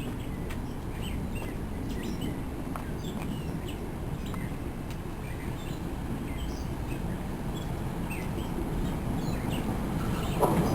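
Small birds chirping again and again, short high calls over a steady low rumble. Near the end the rumble grows louder as a train approaches.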